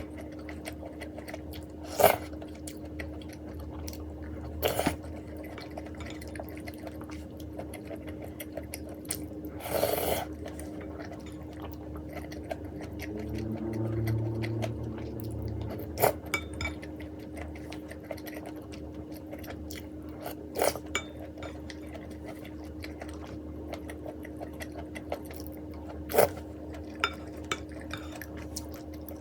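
Person eating ramen: chewing, with now and then a sharp clink of utensils against the bowl, over a steady low hum.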